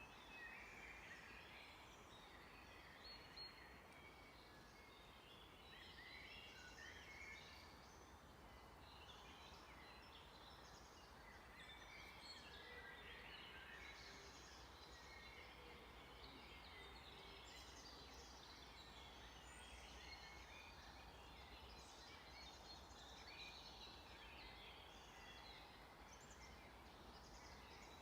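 Faint chorus of several forest birds singing and calling at once, overlapping chirps and trills.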